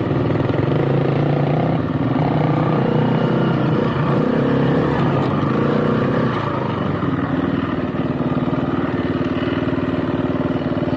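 Motorcycle engine running under way, its pitch rising and falling. It eases off about six seconds in, then holds steady.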